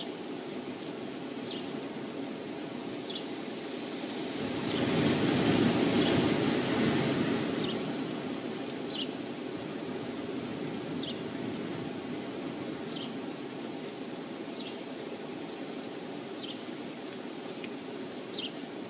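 Wind rushing steadily, swelling in a gust about five seconds in and easing off after. Over it, a small bird gives short high chip notes, one every second or two.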